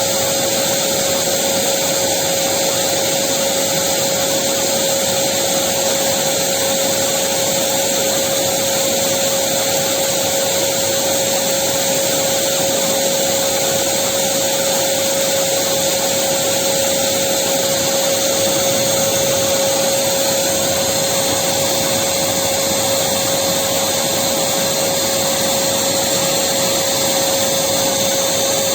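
Electric vacuum cleaner running continuously, a steady airy hiss with a constant motor whine held at one pitch.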